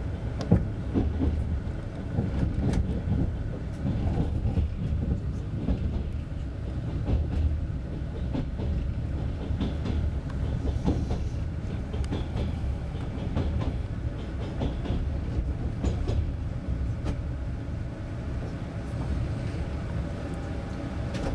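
Passenger train running on the rails, heard from inside the carriage: a steady low rumble with irregular clacks of the wheels over rail joints and points.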